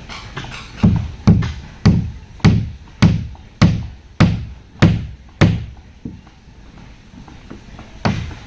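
Heavy blows struck on boat timber, about two a second with a deep resonant thud to each, nine in a row, then a pause and one more blow near the end.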